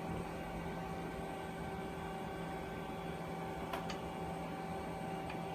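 Steady electrical hum from equipment in the room, with a faint click about four seconds in and another near the end.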